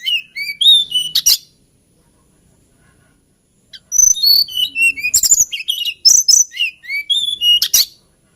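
Hill blue flycatcher singing a sweet, warbling song of quick whistled notes that slide up and down. One phrase ends about a second and a half in; after a pause of about two seconds, a longer phrase of about four seconds follows.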